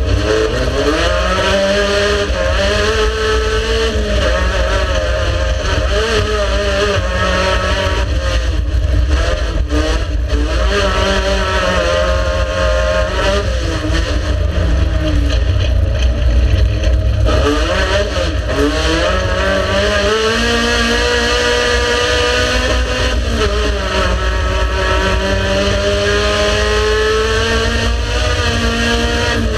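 Race car engine under hard use, its pitch climbing over a few seconds and then falling back again and again as it is driven and lifted, with one quick drop and climb near the middle, over a constant heavy low rumble.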